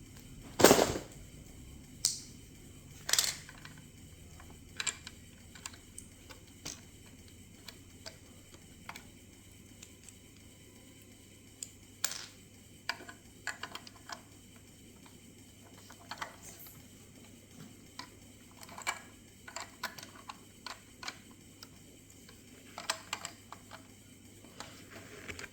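Lego bricks clicking and rattling as they are handled, with irregular sharp plastic clicks, a few louder ones in the first few seconds and lighter ones after.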